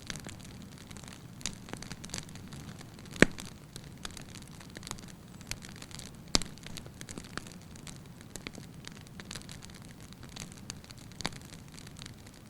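Wood fire in a fireplace crackling steadily over a low rush of flame. Scattered sharp pops from the burning logs, the loudest about three seconds in and again about six seconds in.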